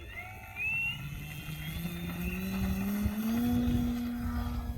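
Hacker A50-16S brushless electric motor of an RC model plane whining with the propeller, rising steadily in pitch as the throttle is opened, then holding steady near the end. A low rumble runs underneath.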